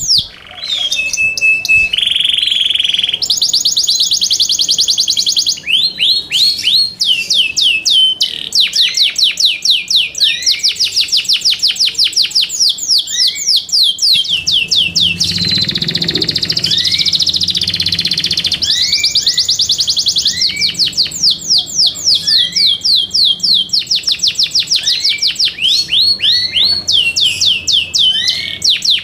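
Yorkshire canary singing: long trills of fast repeated falling notes, with a steady held note early on and short pauses between the phrases.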